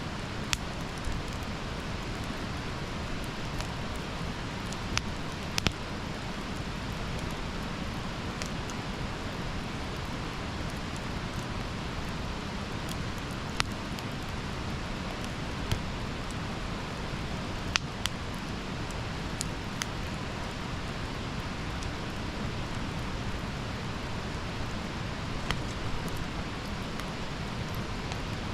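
Wood campfire burning: a steady low hiss and rumble of flames with irregular sharp crackles and pops from the burning wood.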